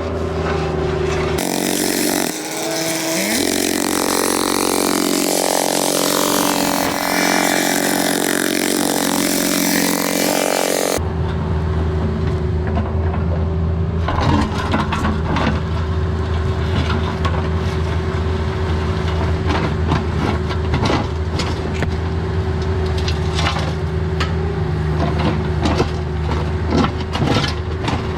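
A small diesel engine on construction machinery runs steadily, with scattered metallic clanks and knocks over it. From shortly after the start until about 11 s in, a louder, hissy, noisier sound covers the engine.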